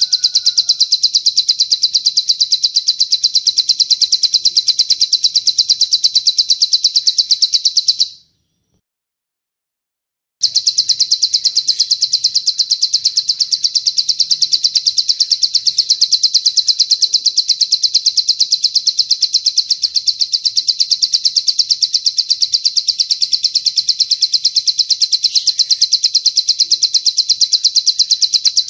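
A bird's long 'cililin' trill: a rapid, even run of high notes, many per second, that stops dead for about two seconds a third of the way in, then starts again and goes on unchanged.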